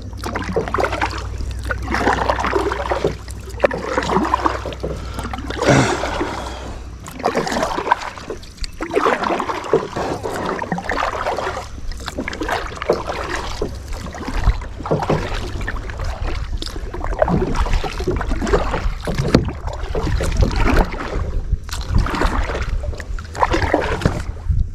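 Kayak paddle strokes dipping and splashing in the water, with drips between them, at a steady pace of roughly one stroke a second.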